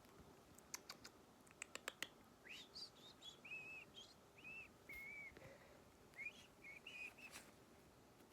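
Faint clicks, then a run of soft, short whistled chirps, some rising and some arched.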